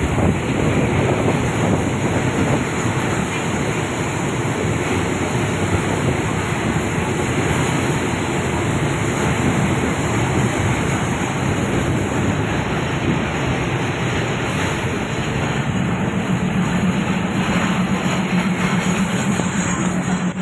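Diesel railcar train running along the track, a steady rush of wind and running noise. A low steady hum joins in about three-quarters of the way through.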